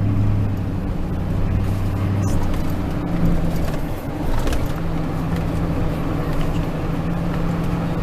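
Chevy Silverado 2500 HD's 6.6-litre Duramax V8 turbo-diesel running while the truck drives, with road noise; the engine tone shifts about four seconds in, then holds steady.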